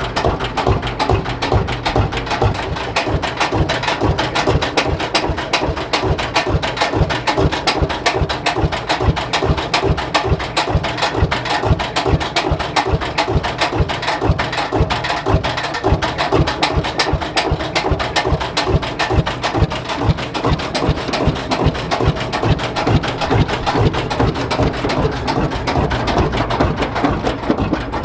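Lanz Bulldog tractor's single-cylinder two-stroke hot-bulb engine idling, a steady, even beat of knocks.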